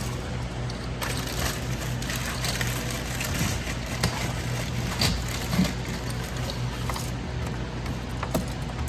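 Faint clicks and small knocks of electrical wires and Wago push-in connectors being handled, over a steady low hum.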